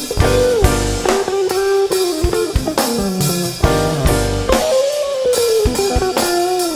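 A rock band playing: a lead line with notes that bend and slide in pitch, over electric guitar, bass and a drum kit keeping a steady beat.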